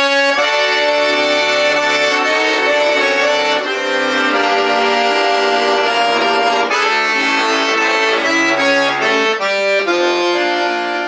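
Accordion playing a tune in full, sustained chords, the notes held and changing every second or so.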